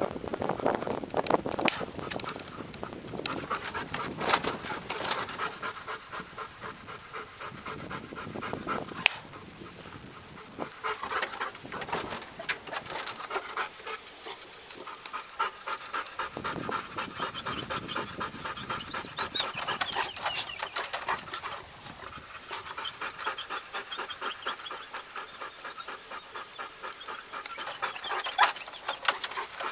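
A hunting retriever panting in quick, rhythmic breaths.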